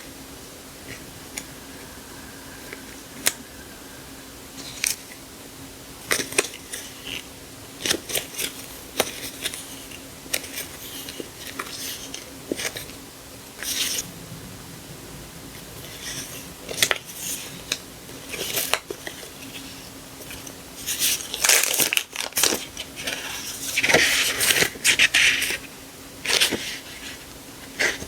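Paper and plastic sticker packaging handled close to the microphone: scattered taps, clicks and short rustles, with a longer spell of crinkling near the end.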